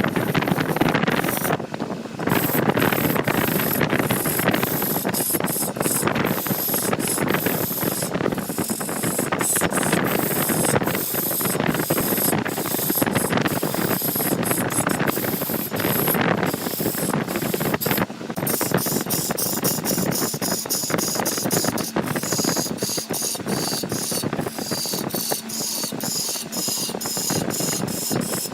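Wood being cut by a woodworking machine, a steady rasping hiss with a rapid chatter that eases off briefly about two seconds in and again past halfway.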